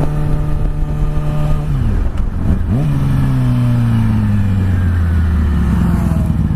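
Yamaha R6 sport bike's inline-four engine running under way. It holds a steady note, drops in pitch at about two seconds, rises sharply in a quick rev, then falls slowly in pitch as the bike slows.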